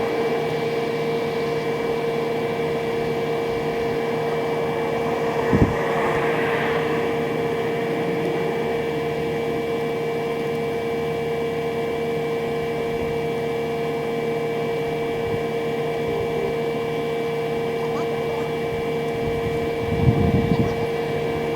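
A steady mechanical drone with a constant low hum that does not change pitch, broken by a single thump about five and a half seconds in and a few knocks near the end.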